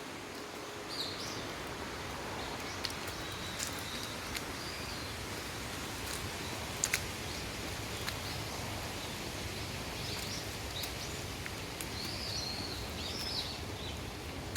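Birds chirping in short warbling calls a few times, over a steady outdoor background hiss, with a few faint clicks.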